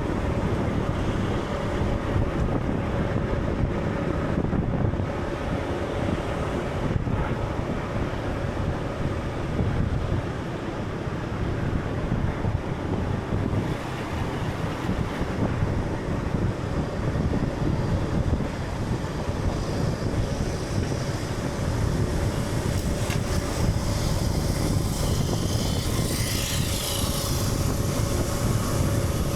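Steady low rumbling ambience like wind and surging water, with a faint steady hum running through it and a brief faint high sound near the end.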